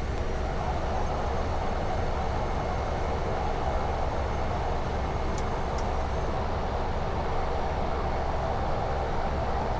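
Steady cabin noise of a Cessna Caravan's PT6A turboprop engine running while the aircraft taxis after landing, an even hum with a deep drone underneath.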